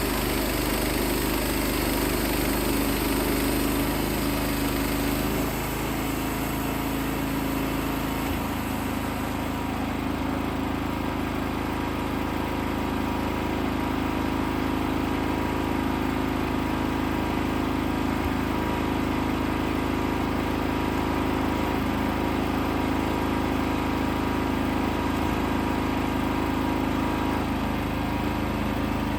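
Wood-Mizer LX55 portable band sawmill running, its 14 hp engine holding a steady note. A high hiss, typical of the band blade in the cut, fades out about nine seconds in, and the engine note shifts slightly as it does.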